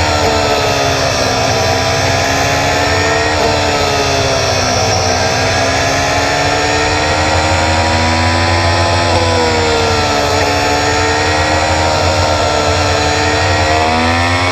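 Motorcycle engine running on the move, played back at double speed. Its note rises and falls gently as the throttle opens and eases, over a steady low rumble.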